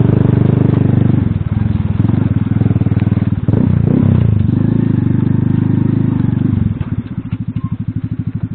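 A small single-cylinder four-stroke Alpha moped engine is pulling under load, its revs dipping and rising twice with throttle changes. Near the end it drops to low revs, with the separate firing strokes audible as a slow chug.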